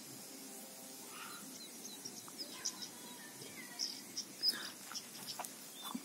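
Small birds chirping in short, scattered calls over a faint outdoor hush, with a few light ticks toward the end.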